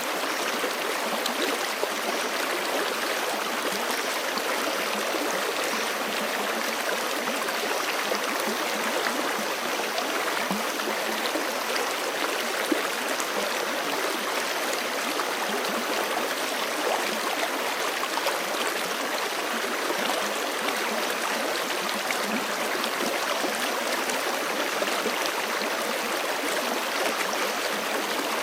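Forest creek running over rocks, a steady rushing and gurgling of water.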